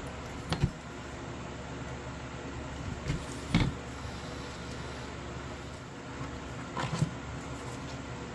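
A few short, sharp knocks or taps over a steady low hum: a pair about half a second in, one near the middle and another pair near the end.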